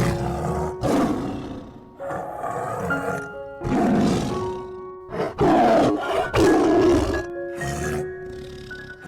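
A large wild animal giving a series of rough roars, each about a second long, the loudest in the middle, over background music.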